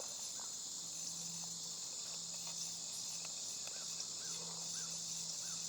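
Steady high-pitched chorus of crickets and other insects, with a faint low steady hum starting about a second in.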